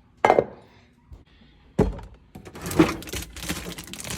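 A sharp thunk about a quarter second in and another near two seconds in, followed by a busy stretch of knocking and rustling: things being handled while food is got ready.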